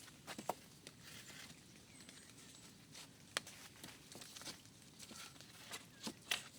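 Scattered light clicks and knocks at irregular intervals, a dozen or so, the sharpest about half a second in and near the end.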